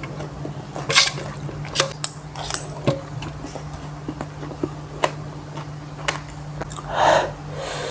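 Close-up eating sounds: wet chewing and biting with scattered short clicks and smacks, over a steady low hum. A louder mouth noise comes near the end.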